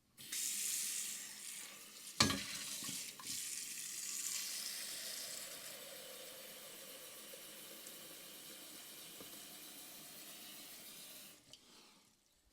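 Tap water running into a cooking pot, filling it with water for boiling vegetables, with a sharp knock of the pot about 2 seconds in. The flow runs steadily, eases off and stops about 11 seconds in.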